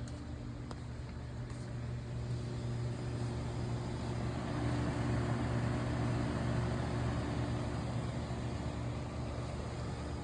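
A steady low motor hum, with a rushing noise that swells up about four seconds in and slowly eases off, like a vehicle going by.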